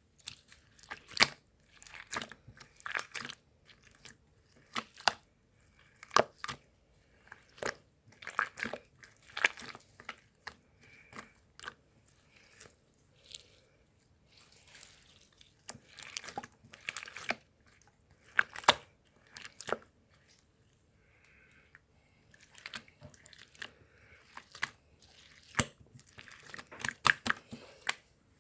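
Crisp crunching and crackling: irregular sharp clicks in clusters, with short pauses between them.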